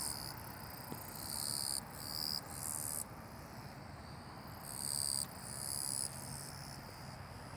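Grass insects, crickets or katydids, singing close by in high, shrill trills. Each burst lasts about a second and several follow one another, with a short lull about halfway through.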